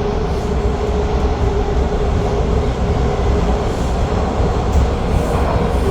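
TTC Line 2 subway train running and slowing into a station: a steady rumble with a steady whine that fades a few seconds in.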